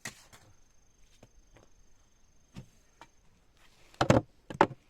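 Scattered light knocks and taps, then a cluster of heavy thuds about four seconds in and one more half a second later, like blows or objects set down hard during building work.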